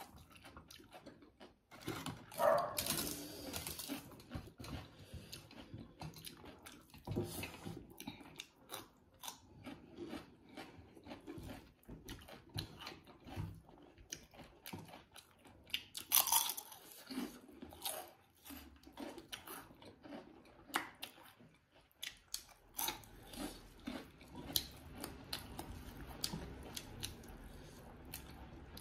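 Close-up eating sounds of two people having rice and chicken curry with their hands: steady chewing, biting and lip smacks, with a couple of louder crunches, about three seconds in and again around sixteen seconds.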